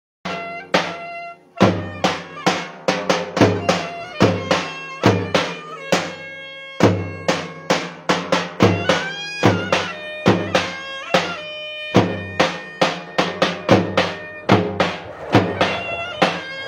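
Turkish wedding dance music: a loud, reedy wind instrument plays a melody over a big drum beating about twice a second.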